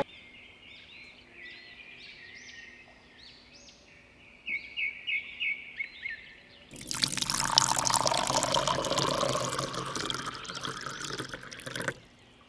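Small birds chirping in quick repeated notes, then water pouring and splashing loudly for about five seconds before the chirping returns.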